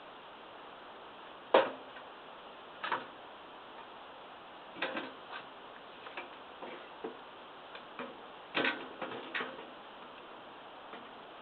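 Scattered sharp knocks and clicks from a small three-point backhoe being unhitched from the back of a tractor. The loudest knock comes about one and a half seconds in, and a quick cluster comes near the end.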